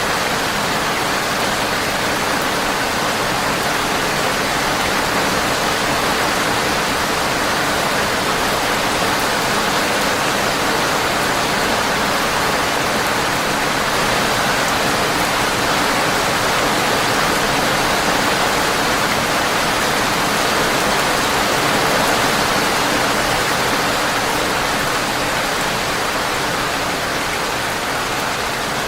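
Steady rain pattering on a windowpane: a dense, even hiss with no pauses.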